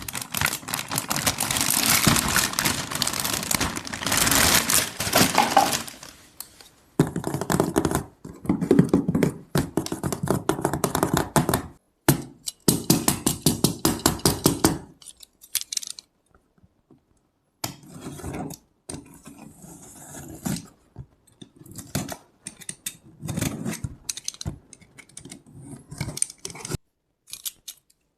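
Packaging and small plastic toy pieces being handled: crinkling and scraping at first, then bursts of clicking and rattling with short pauses between them.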